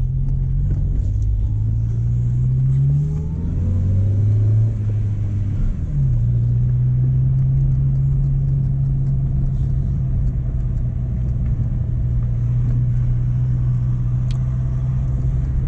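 Mk1 Renault Clio engine running while driving, its note rising for a couple of seconds, then dropping sharply about six seconds in and settling into a steady hum.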